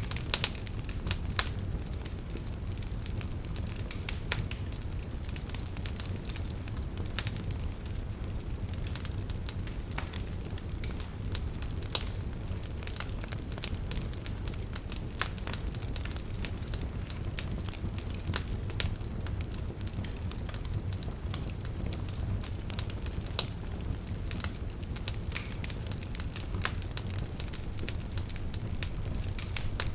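Wood fire burning in a fireplace: a steady low rumble with frequent irregular crackles and occasional louder pops.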